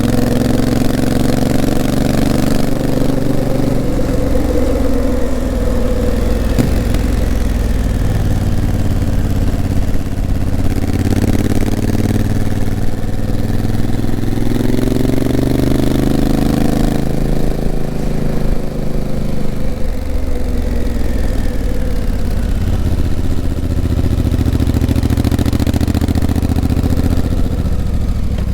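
Honda CRF1000L Africa Twin's 998 cc parallel-twin engine running under way, its revs rising and falling several times.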